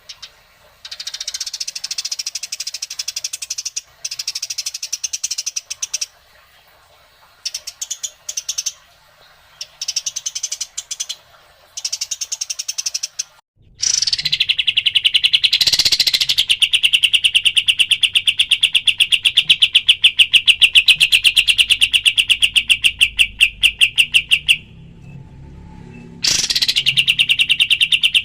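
Recorded songbird song: short high-pitched phrases with pauses between them, then a loud, very fast rattling trill that lasts about eleven seconds, breaks off briefly, and starts again near the end.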